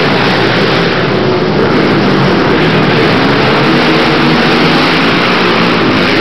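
Racing ATV quad engines running hard, several at once: a loud, steady, dense engine din with overlapping pitches.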